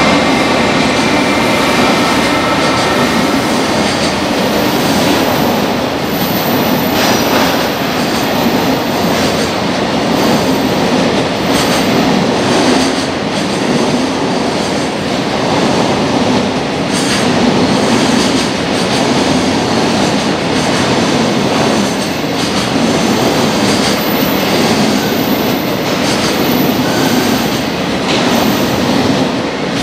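Long container freight train's wagons rolling past steadily, wheels clacking over the rail joints, with a high wheel squeal coming and going.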